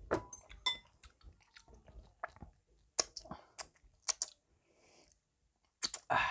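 A person chewing a mouthful of creamy carbonara pasta close to a clip-on microphone, with a scatter of short, sharp mouth clicks and smacks.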